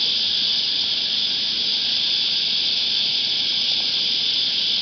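Cicadas in the creekside trees singing together in a loud, steady, unbroken high buzz.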